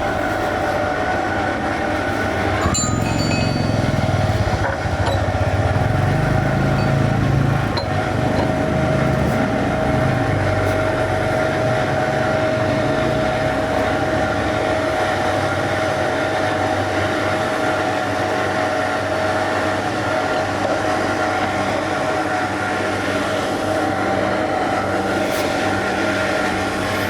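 A machine running steadily, with a constant whine over a noisy drone. A lower rumble swells and fades during the first half.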